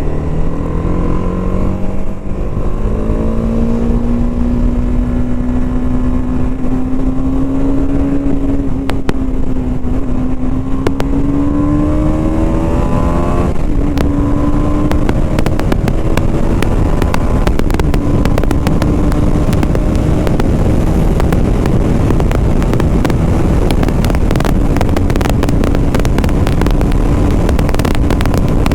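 BMW G 310 RR's single-cylinder engine pulling hard, its note rising quickly at first and then climbing slowly. It drops sharply about halfway through at a gear change, then runs steady at speed. Rushing wind on the helmet microphone grows louder through the second half.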